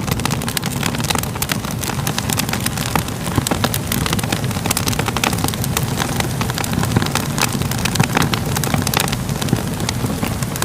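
Crackling fire: a steady low rumble of flames with frequent irregular pops and crackles.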